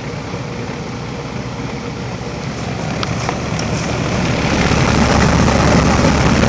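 Outdoor heat pump condensing unit running steadily, with a broad noise that swells louder over the last few seconds.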